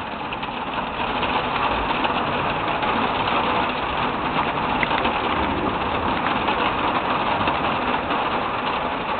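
Heavy rain falling steadily in a thunderstorm, a constant hiss that gets a little louder about a second in.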